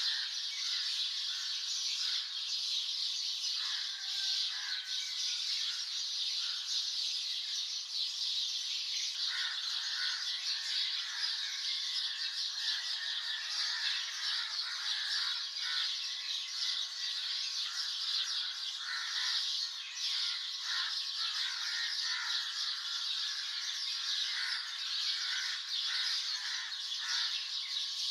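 A dense dawn chorus of many songbirds, chirping and calling over one another without a break.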